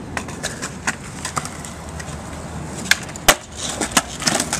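Irregular light clicks and knocks over a steady low background, with one sharper knock about three seconds in.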